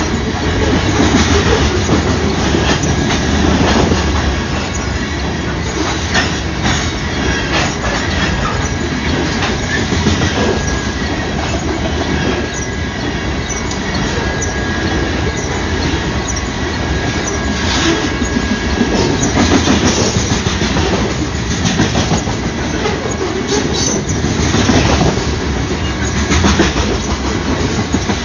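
Train rolling past at close range, a continuous rumble of steel wheels on rail with repeated clicks over the rail joints. A thin, high wheel squeal comes in faintly through the middle.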